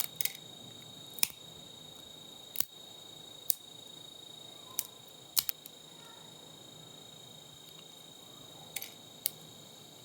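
Irregular sharp clicks and snaps, about ten in all, from parts and tools being handled while taking apart an old monitor, over a faint steady high-pitched whine.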